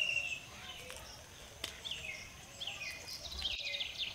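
Small birds calling: a held whistled note that ends about half a second in, then short chirps sliding down in pitch, coming more quickly toward the end. A few faint clicks sound among them.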